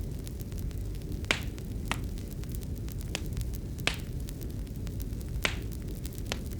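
Wood fire crackling in a fireplace: irregular sharp pops and snaps, a few louder ones among many faint ticks, over a steady low rumble.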